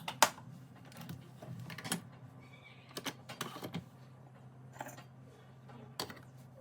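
Irregular light clicks and knocks of small objects being handled, over a steady low hum; the sharpest knock comes just after the start.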